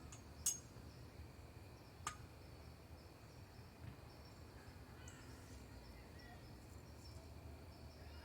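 Quiet outdoor ambience with two sharp clicks, about half a second and two seconds in, and a few faint bird chirps.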